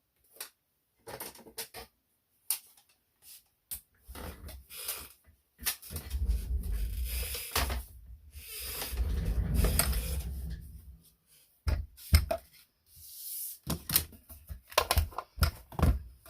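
Small die-cutting machine and its cutting plates being pulled out and set up on a tabletop: scattered knocks and clicks, with two longer rumbling, scraping stretches as the machine is slid into place.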